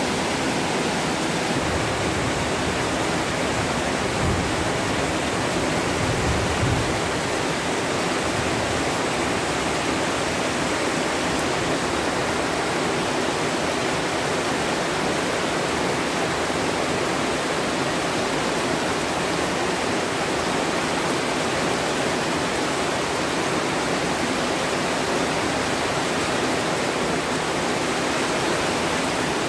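Heavy tropical rain pouring down steadily, a dense, even hiss of a downpour.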